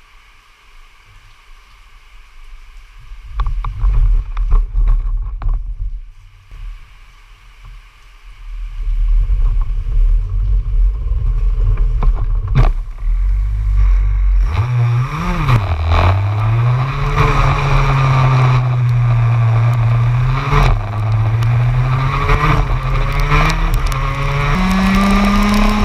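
TM K9ES 125cc two-stroke shifter kart engine heard onboard. For the first half there is only low rumbling and a few knocks. About halfway in the engine note comes in strongly, rising and falling with the throttle, and it climbs higher near the end.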